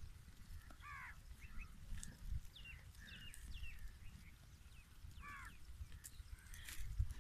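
Birds calling, faintly, over a low rumble on the microphone: a few short, high descending chirps, and a harsh, arching call about a second in and again near five seconds, typical of crows cawing.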